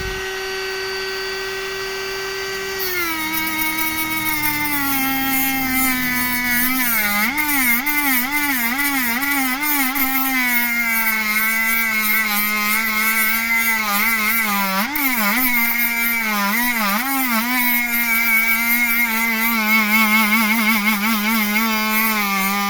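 Battery-powered Dremel rotary tool spinning a flap disc, first running free with a steady whine. About three seconds in the disc bears on the metal of a two-stroke cylinder's exhaust port: the whine drops in pitch and wavers up and down with hand pressure, under a rasping grinding hiss.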